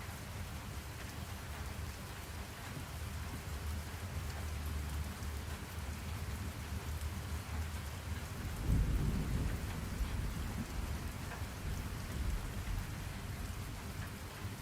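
Steady rain falling, with low rolling thunder that swells about nine seconds in.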